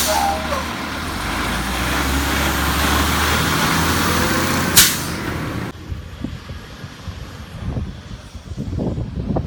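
Rapid Rail automated side-loader garbage truck running loudly with a steady low engine drone, and a short sharp air hiss about five seconds in. The sound then cuts abruptly to a quieter stretch of scattered low knocks and clunks.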